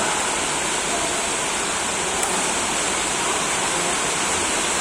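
Steady, even rushing noise with a faint high tick about two seconds in.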